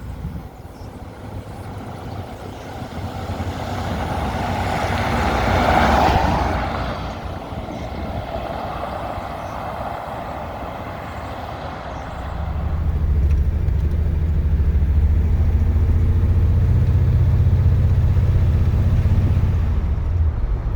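Cab of a 1965 Ford F100 pickup on the move with the windows open: road and wind noise swells to a peak about six seconds in and fades, then from about twelve seconds the engine's low drone grows louder and holds steady.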